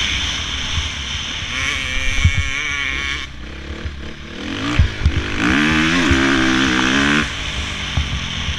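Dirt bike engines revving as bikes ride past: a shorter rev, then a louder one about halfway through that climbs in pitch and cuts off sharply, over a low rumble.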